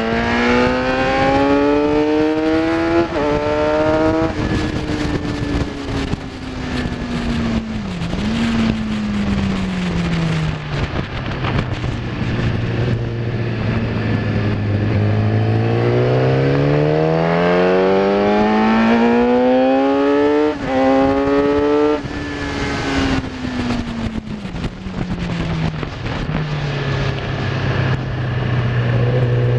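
Kawasaki ZX-10R inline-four engine under hard acceleration and braking on track. The note rises and steps down through two quick upshifts, then falls away as the bike slows, with a short downshift blip along the way, and holds low for a few seconds. It then climbs again through two more upshifts near the end and drops once more to a steady low note.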